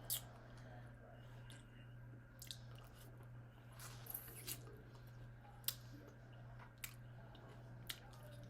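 Close chewing of stir-fried jumbo prawns, with scattered short sharp mouth clicks. A steady low hum runs underneath.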